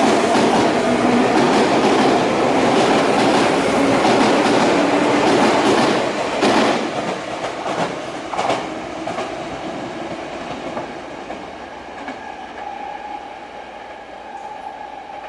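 Sotetsu 9000 series electric train pulling out and running away. Loud steady running noise for about six seconds, a few clacks of wheels over rail joints, then a gradual fade, with a faint rising motor whine near the end.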